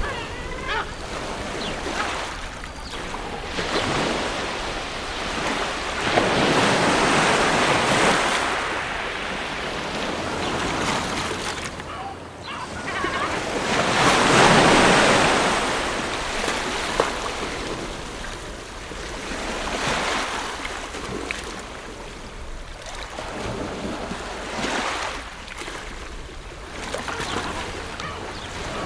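Ocean surf: waves breaking and washing in, rising and falling in slow surges every few seconds, the biggest about six and fourteen seconds in.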